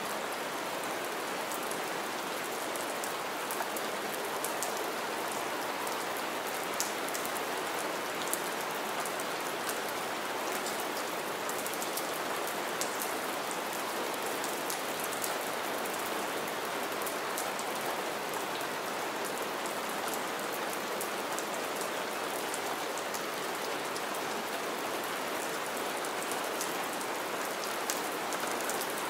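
Steady rain falling onto shallow standing water and pine-needle litter, a constant hiss dotted with many small, sharp drop splashes.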